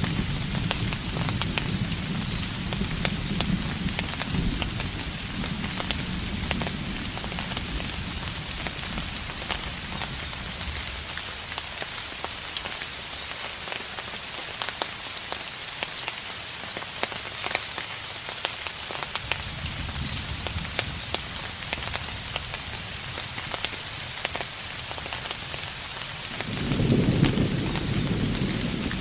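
Steady rain pattering with many small drop ticks, under distant thunder rumbling low in the first third, again past the middle, and swelling to its loudest near the end.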